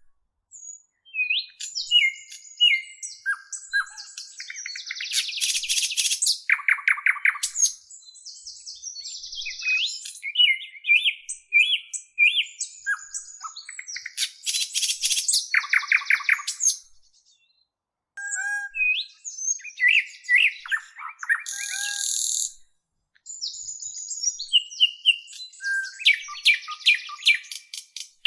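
Birdsong: a varied run of chirps, whistled notes and rapid trills, with a couple of short breaks.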